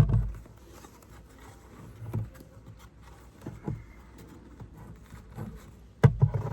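Wooden hive frames and hive box being handled: a few dull knocks and rubs, with louder low thumps at the start and about six seconds in.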